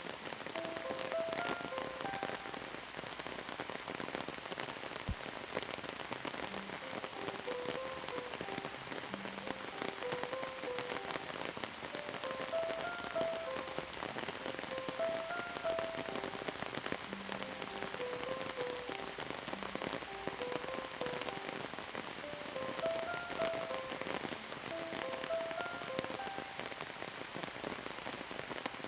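Steady rain falling on a surface, with many separate drops ticking through it, under a slow, soft melody of single notes and a few held low notes.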